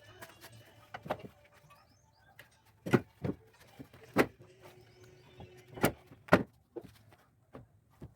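Irregular knocks and clanks of hand tools and metal suspension parts being handled, with a few louder sharp hits about three, four and six seconds in.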